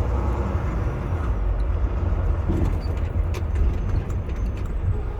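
Semi truck running on the highway, heard from inside the cab: a steady low engine and road rumble with a few faint ticks.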